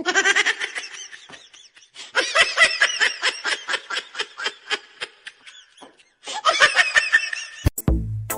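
High-pitched laughter in fast, breathy bursts, coming in three long runs with short pauses between. Near the end, music with a thumping beat comes in.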